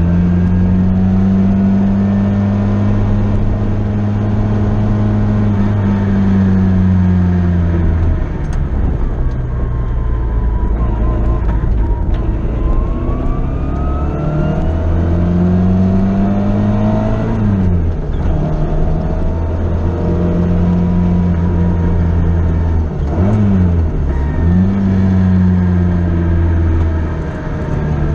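Sports car engine heard from inside the car as it is driven hard on a circuit, held at steady high revs, easing off for a few seconds about a third of the way in, then dipping sharply in pitch and picking up again twice near the end.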